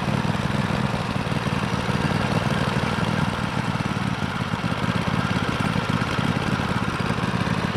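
Kohler 7000 Series engine on a Poulan Pro riding mower running steadily at idle, with an even drone that does not change.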